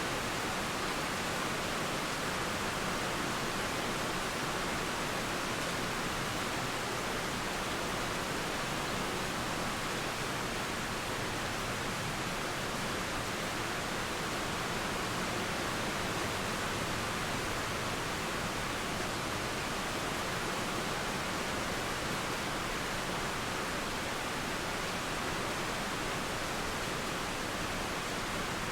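Steady rain and flowing river water making an even hiss that holds level throughout, with no thunder or birdsong standing out.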